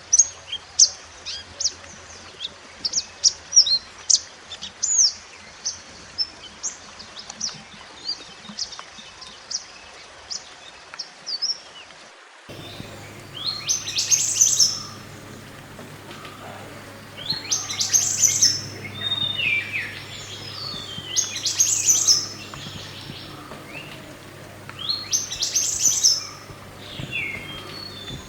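Mantenan gunung songbird singing: a quick run of short high chirps, then, after an abrupt change in the background about twelve seconds in, louder song phrases repeated every three to four seconds. A faint steady low hum runs underneath.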